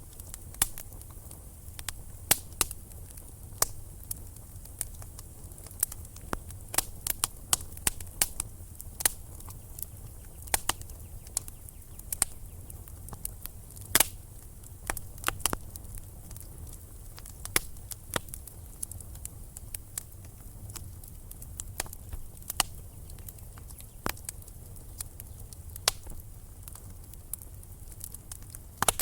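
Wood fire burning in a fireplace: irregular sharp crackles and pops, sometimes several in a second, over a low steady rumble of the flames, with the loudest pop about halfway through.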